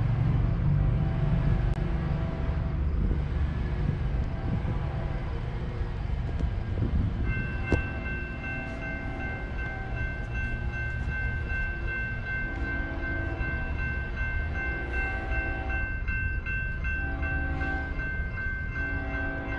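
BNSF freight train approaching along the line: a steady low rumble, with its horn sounding a series of roughly one-second blasts from about eight seconds in. A steady high tone joins at about the same time.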